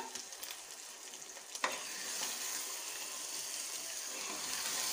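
Kenaf (gongura) leaf paste sizzling in hot sesame oil in a pan, a steady high hiss with a single sharp click about one and a half seconds in. The sizzle swells slightly near the end.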